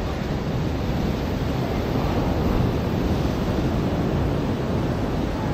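Ocean surf washing onto a beach: a steady rushing wash of waves that swells slightly a couple of seconds in.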